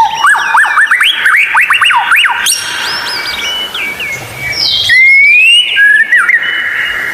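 White-rumped shama (murai batu) singing a loud, varied song of whistled notes. It runs quick rising-and-falling slurs in rapid series, with a long rising whistle about five seconds in.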